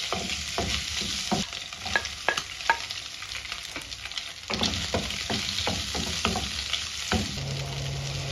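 Sausage slices, garlic and onion sizzling in a hot nonstick wok, with a wooden spatula knocking and scraping against the pan as it stirs.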